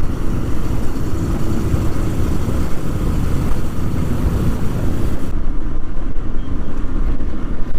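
Steady wind rush and motorcycle engine and road noise heard from a rider's camera microphone while riding at speed in a group of motorcycles. The upper hiss thins out about five seconds in.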